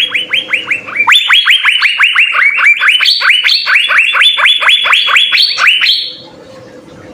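Asian fairy-bluebird (cucak biru) calling in a fast series of sharp, downward-slurred whistled notes, about four a second, stopping about six seconds in; a faint steady hum stays under it.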